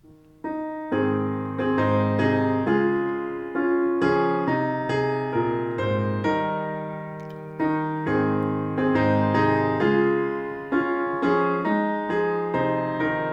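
Piano playing a hymn introduction in chords, each chord struck and left to fade before the next.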